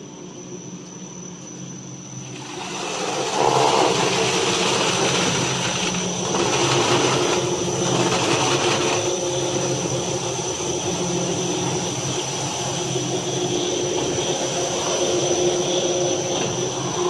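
Brush sanding machine running with a steady motor hum and a high whine; about two and a half seconds in, a loud, even rushing noise from the sanding brushes comes in and holds.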